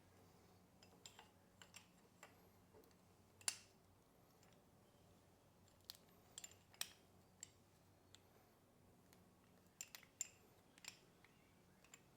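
Scattered small, sharp clicks and light clinks of hard objects being handled, about a dozen over the stretch, the sharpest about three and a half seconds in, against near silence.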